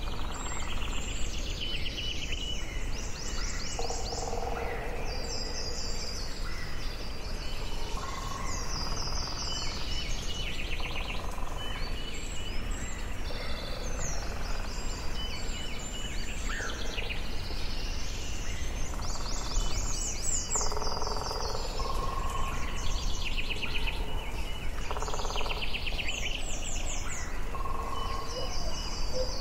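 Forest birdsong, with several birds calling over one another. Fast high trills and chirps repeat every second or two, mixed with lower whistled notes, over a steady low rumble of background noise.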